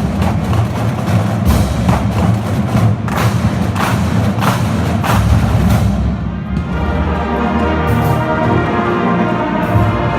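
Marching band playing live: brass and drums together, with a run of sharp percussion hits through the first half. After that the band settles into held brass chords.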